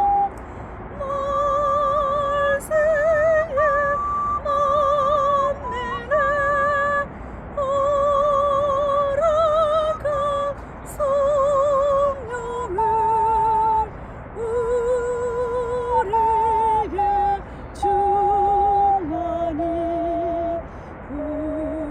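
Ocarina playing a slow hymn melody: single held notes with vibrato, with short pauses between phrases.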